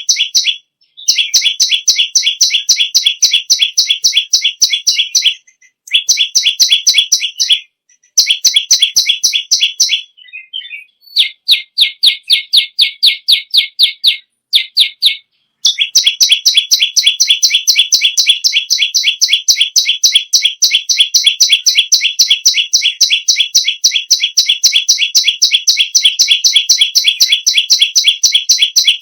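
Perenjak lumut songbird singing a loud, fast string of high, evenly repeated chirping notes, about five or six a second, in long runs broken by a few short pauses, with one long unbroken run through the second half.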